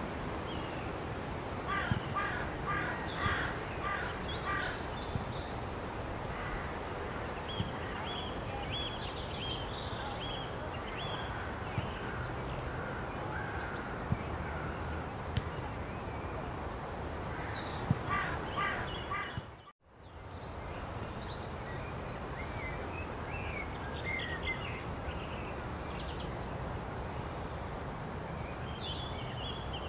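Wild birds calling over a steady outdoor background noise: two runs of loud, harsh, rapidly repeated calls, along with thinner high chirps from small songbirds, which grow busier after a cut about two-thirds of the way through.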